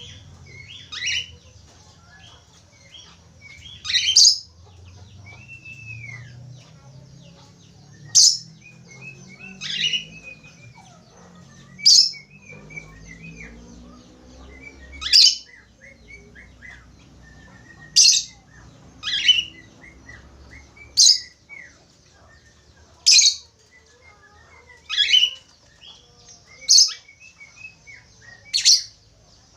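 Budgerigar chirping and warbling: a dozen or so loud, sharp calls one to three seconds apart over soft, continuous chatter.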